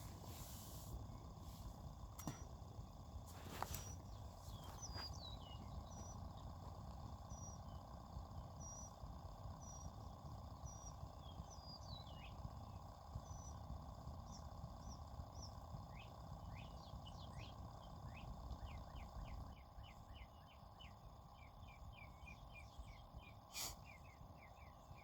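Birds singing faintly: thin high chirps and short falling notes, then a quick run of falling chirps, about three or four a second, over a low steady background, with one sharp click near the end.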